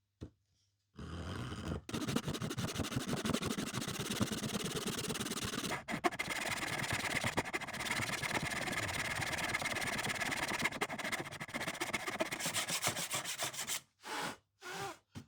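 Rapid back-and-forth strokes of hand abrasion, a rasp, file or sandpaper worked against a workpiece. The strokes start about a second in, run fast and continuous, and stop abruptly near the end, followed by a few short scrapes.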